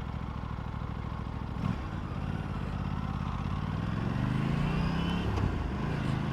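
Aprilia RS 457's parallel-twin engine running as the bike rides at low speed, its note rising steadily from about two seconds in as it accelerates, with a short dip near the end.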